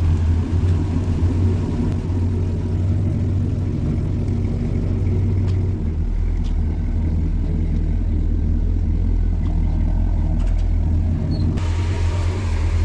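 Supercharged big-block V8 with dual four-barrel carburettors in a 1966 Chevy Nova running with a deep, steady rumble. The sound changes character about six seconds in and turns brighter near the end.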